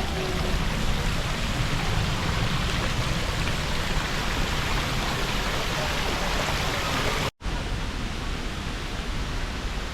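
Steady rushing noise, broken by a brief dropout about seven seconds in.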